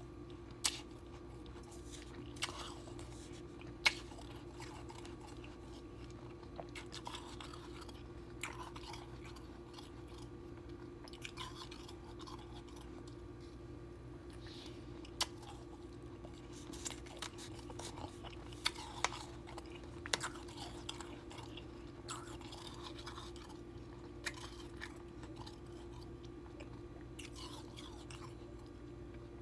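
Powdery soft ice cubes being bitten and chewed close to the microphone: irregular, crisp crunches, some sharp and loud, with softer chewing between them. A steady low hum runs underneath.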